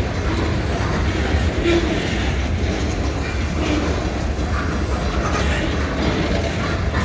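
Long New England Central Railroad freight train's cars rolling past on the rails: steady wheel-on-rail noise with a heavy low rumble.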